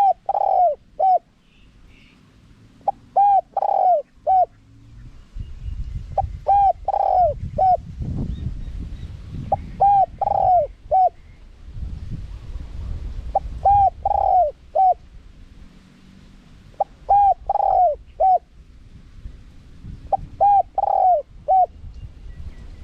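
Spotted dove cooing in the wild 'karom' call style: a phrase of about four short, falling coos, repeated about every three and a half seconds, seven times. A lure call for drawing in wild spotted doves.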